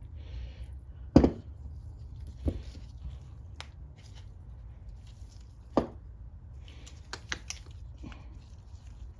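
Scattered sharp clicks and knocks of tools and small carburetor parts being handled, over a steady low hum. The loudest knock comes about a second in, and there is a quick run of clicks near the end.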